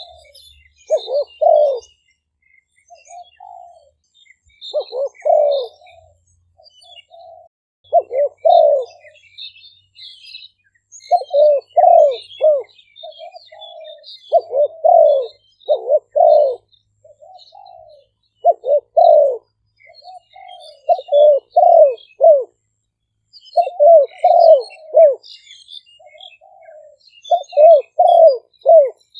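Spotted dove cooing: a decoy bird repeating short phrases of several low coos every few seconds, with faint high chirps of other small birds behind.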